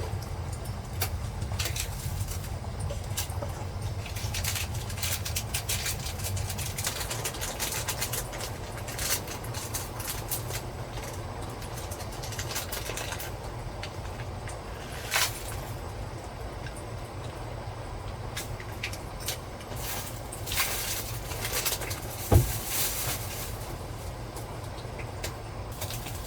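Rain and typhoon wind against a small truck-bed camper shell: irregular taps and clicks of rain on the roof over a steady low rumble. One sharp thump comes about 22 seconds in.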